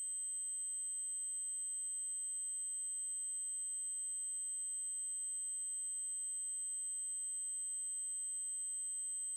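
Steady, high-pitched 8192 Hz triangle-wave test tone, holding one unchanging pitch.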